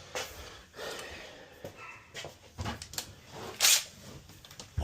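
Hand tools being handled and rummaged through, with scattered clicks and rubbing and one loud, brief scraping clatter about three and a half seconds in.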